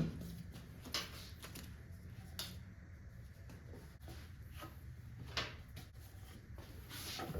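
A few light, scattered clicks and knocks of things being handled, over a faint low steady hum.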